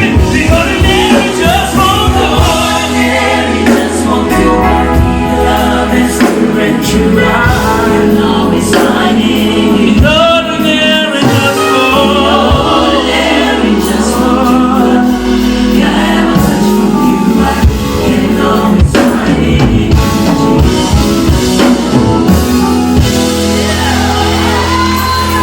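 Live gospel band music with singing: a steady bass line under voices, with drum strikes throughout.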